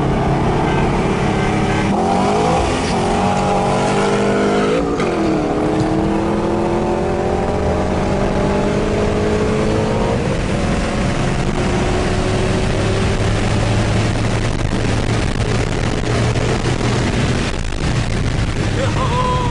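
Turbocharged street car accelerating hard. The engine note climbs, drops sharply for a gear change about five seconds in, then climbs again. About halfway through it settles into a lower, steady drone as the car eases off.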